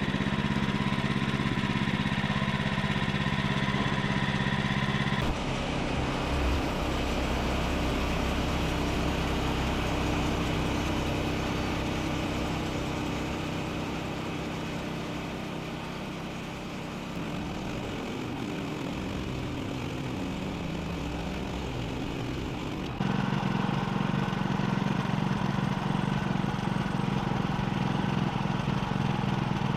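Gas engine of a Woodland Mills HM130MAX portable bandsaw mill running steadily. Its sound changes abruptly about five seconds in and changes back again near the end.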